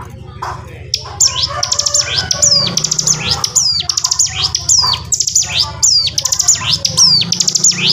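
Ciblek gunung (mountain prinia) singing a fast, continuous chattering song that starts about a second in: rapid trills broken by high notes sweeping downward, repeated about twice a second. A steady low hum runs underneath.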